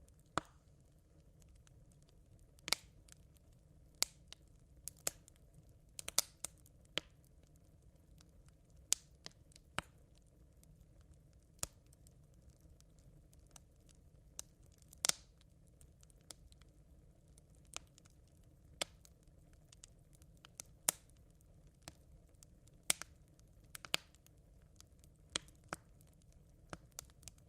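Campfire of smouldering embers crackling: sparse, irregular sharp pops and snaps, roughly one every second or two, over a faint steady low background.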